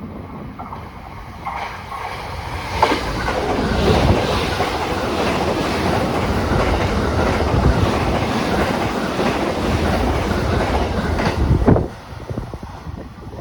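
A train passing through the station, its wheels clacking over the rail joints. The sound builds over the first couple of seconds, stays loud for about nine seconds, then drops away suddenly as the train clears.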